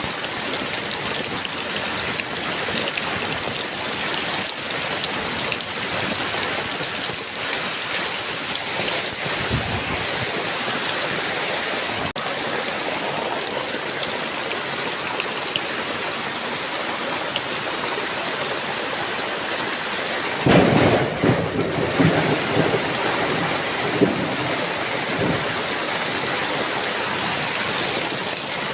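Heavy rain falling steadily. About twenty seconds in, a sudden thunderclap breaks in and rumbles on with several further peaks for a few seconds.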